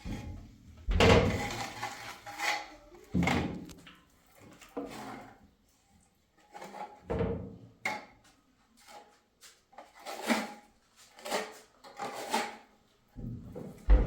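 Irregular knocks and clunks of objects being handled, about eight of them spread unevenly, the first and loudest about a second in.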